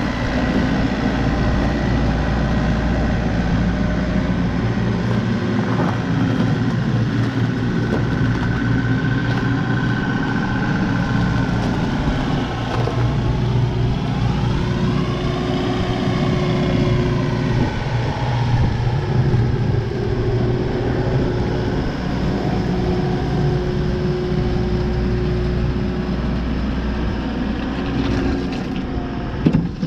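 Vehicle engine running steadily while driving, its note rising and falling about halfway through, with one short knock near the end.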